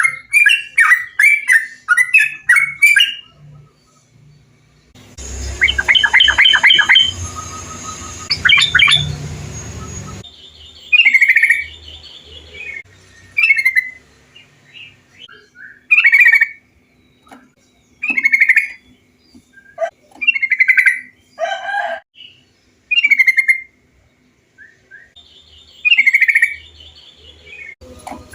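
Bulbuls calling: a quick run of chattering notes, then a hissier stretch of rapid notes from a different recording, then short bubbly phrases repeated about every two seconds. These are lure calls used to set caged bulbuls singing.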